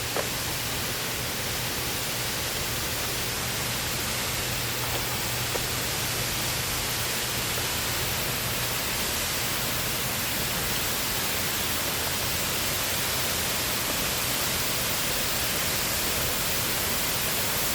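Steady rush of a waterfall's falling water, getting slightly louder toward the end.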